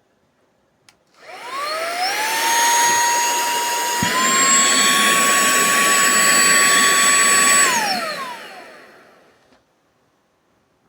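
SERVOMASTER cordless handheld car vacuum switched on with a click, its motor spinning up to a steady high whine over a rushing airflow hiss. About four seconds in a click comes and the whine steps slightly higher, then the motor is switched off and winds down.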